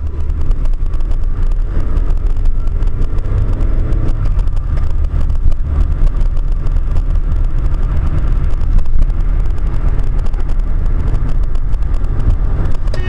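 Car on the road: a loud, steady low rumble of driving noise with constant fine crackling over it.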